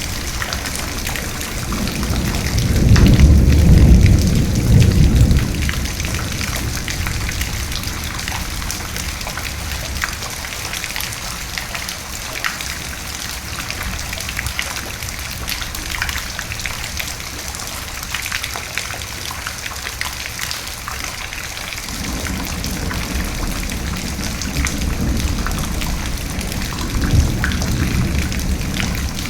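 Steady rain falling, with a roll of thunder that swells about two seconds in and is loudest from about three to five seconds, then dies away. A second, softer thunder rumble builds from about twenty-two seconds and peaks near twenty-seven seconds.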